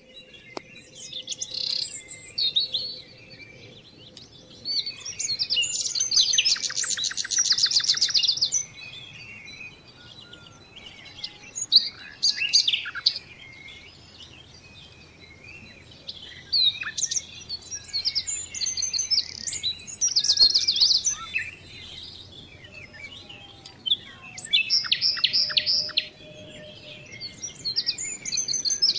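Songbirds singing: repeated phrases of high chirps and fast trills, a few seconds apart.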